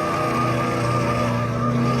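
Car engine held at high, steady revs while its tires skid, as in a burnout at a car meet.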